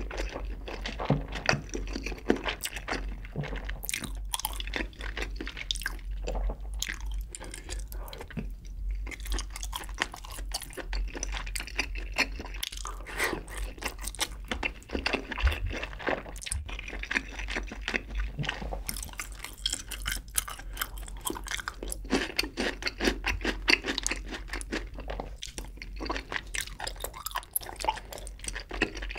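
Close-miked chewing of spicy braised chicken and sausages: steady mastication with many quick, irregular mouth clicks and smacks.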